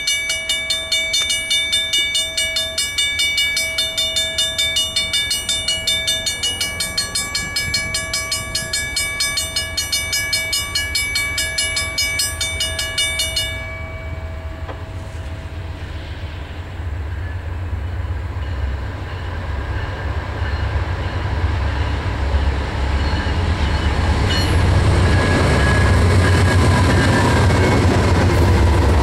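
A bell rings about twice a second, then stops partway through. Afterwards the diesel locomotives of an approaching freight train, two GE C40-9Ws and an EMD SD60, rumble louder and louder as they draw near.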